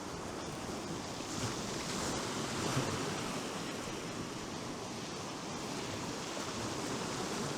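Sea surf washing onto the beach with wind blowing, a steady rushing noise.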